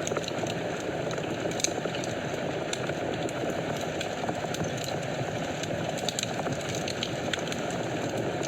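Fire burning in a fireplace: a steady low hiss of flames with scattered sharp crackles and pops.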